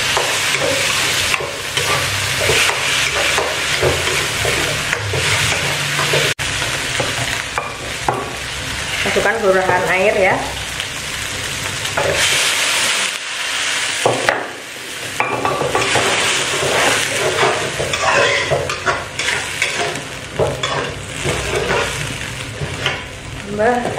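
Chili paste sizzling in a wok, stirred and scraped with a metal spatula in repeated short strokes over a steady frying hiss.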